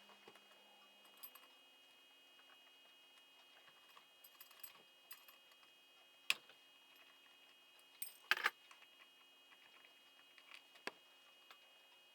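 Sparse clinks and clicks of metal tools and small engine parts being handled during an engine teardown. A sharp clink comes about six seconds in and a quick double clink around eight seconds, over a faint steady hum.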